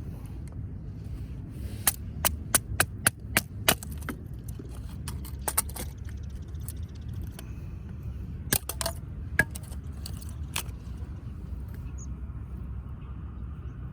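Sharp cracks of wood: a quick run of about seven in under two seconds, about two seconds in, then a few scattered ones, over a steady low rumble.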